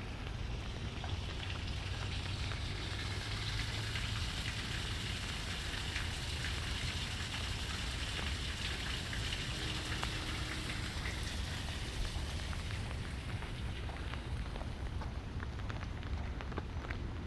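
Light rain falling steadily, with scattered distinct drops ticking close by. The hiss of the rain swells for several seconds in the middle, then eases.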